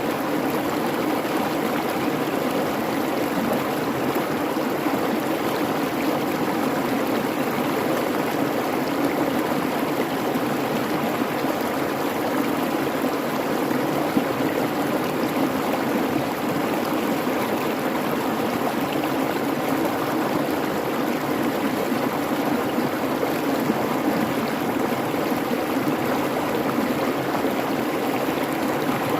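Creek water babbling and rushing over rocks in a steady, unbroken flow.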